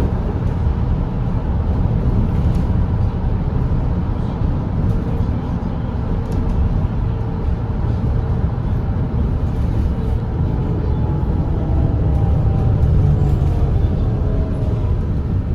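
Volvo B8RLE double-decker bus's six-cylinder diesel engine and road noise at expressway cruising speed: a steady, heavy low rumble.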